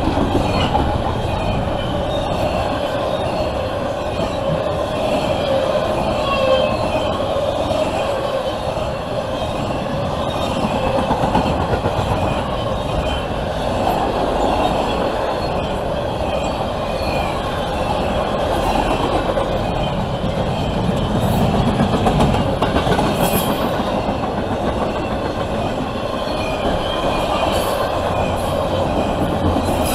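CSX double-stack intermodal freight train rolling past at close range, a steady loud rumble of steel wheels on rail from the passing container well cars.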